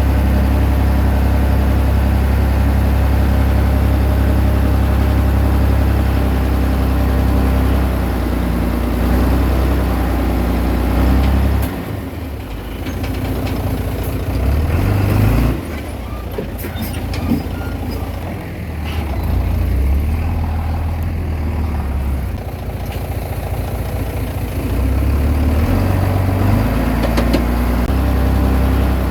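Komatsu D20P bulldozer's diesel engine running hard and steady, then easing off and changing speed for a stretch in the middle before picking back up to full steady running near the end.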